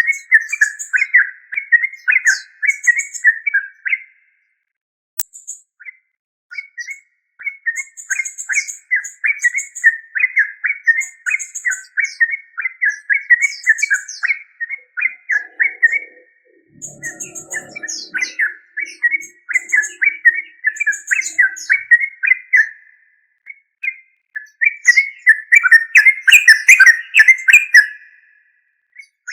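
Yellow-vented bulbul singing: long runs of fast, chattering notes, broken by short pauses, with thin high chips above them.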